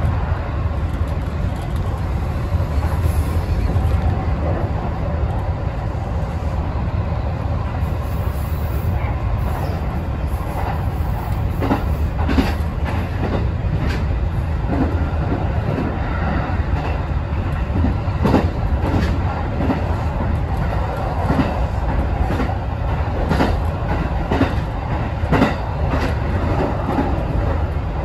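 Kintetsu express train running at speed, heard from inside the lead car: a steady low rumble of wheels and running gear, with wheels clicking over rail joints, frequent from about halfway through.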